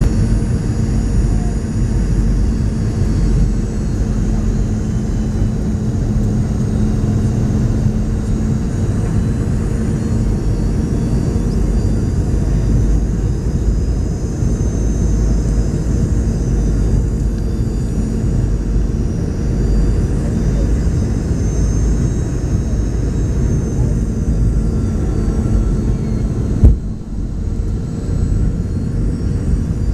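Steady jet cabin noise inside a Boeing 717-200: the low rush of the airflow, a hum and faint high whine from the tail-mounted Rolls-Royce BR715 turbofans. Near the end there is one sudden thump, the loudest moment, after which the low rumble is a little quieter.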